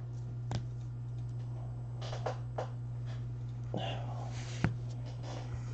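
Trading cards being handled: soft rustling and a few light clicks as cards are slid and flipped, over a steady low electrical hum.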